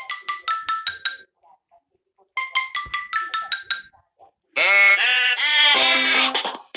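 Phone ringtones: a quick run of about eight bright chime notes stepping in pitch, played twice with a short pause between. About four and a half seconds in, a louder ringtone with a wavering, voice-like sound begins.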